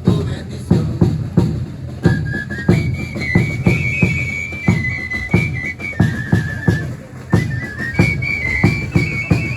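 Drums beating a steady, even rhythm, joined about two seconds in by a high flute or whistle playing a simple melody on a few held notes: the band of a Chilean religious dance troupe.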